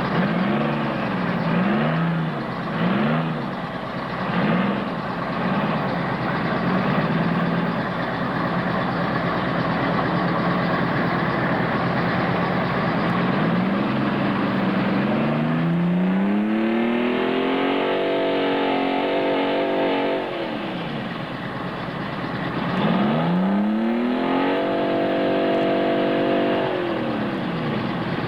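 Modified mud truck's engine revving hard: several quick revs in the first few seconds, then two long revs past the middle that climb, hold at high revs for a few seconds and drop back.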